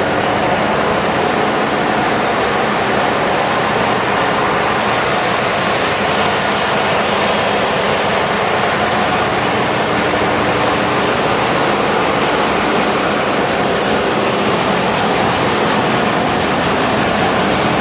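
Loud, steady din of a bulk carrier's engine-room machinery running, a dense rushing noise with a few faint steady tones through it.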